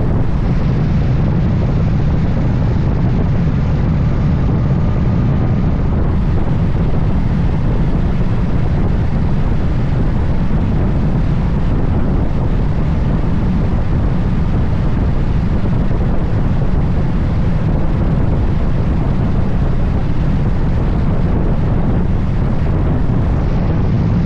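Steady wind rush over the microphone on a moving motorcycle, with road and engine noise underneath: a loud, even, low rumble that never lets up.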